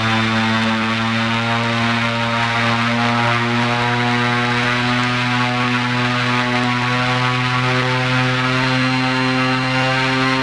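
A 40 kW brushless DC electric motor spinning a three-blade carbon-fibre propeller at high power, giving a loud, steady propeller drone whose pitch creeps slowly upward. A faint, thin high whine sits above it.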